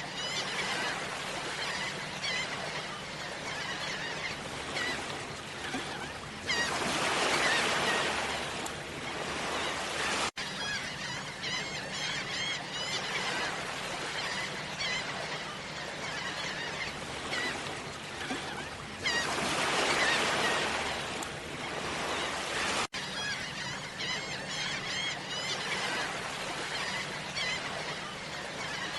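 Small birds chirping repeatedly, with two louder stretches of splashing water noise, each lasting a few seconds and ending in a sudden cut.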